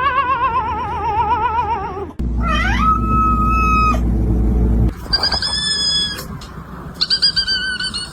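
Cats calling in a string of separate short clips. First comes a long yowl that wavers rapidly in pitch. Then a call slides up into a held steady note, and two shorter high cries follow near the end.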